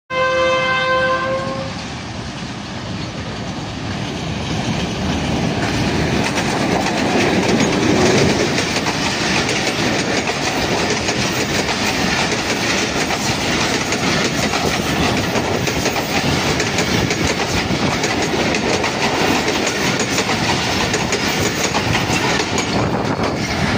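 An HBU-20 diesel locomotive sounds its horn for about two seconds, then the train passes close by. The engine noise peaks about eight seconds in, followed by the steady clickety-clack and rumble of passenger coaches rolling past on the rails.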